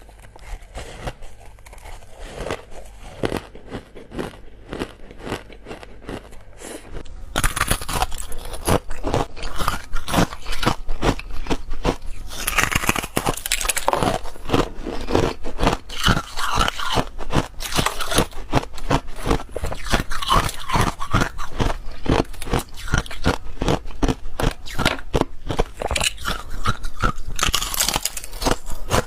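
Crunchy ice being bitten and chewed close to the microphone: a steady run of sharp crunches. They are fainter at first and grow louder and denser about seven seconds in.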